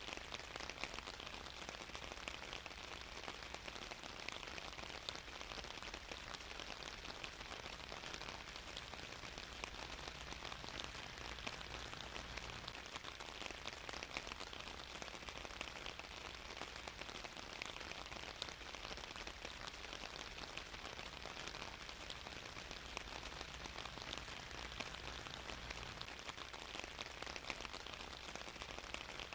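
Steady rain falling on a surface, a continuous hiss dotted with many fine drop ticks, unchanging throughout.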